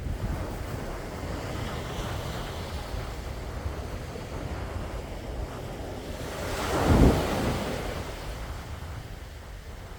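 Sea waves washing ashore, one wave surging up and breaking loudest about seven seconds in, with wind rumbling on the microphone.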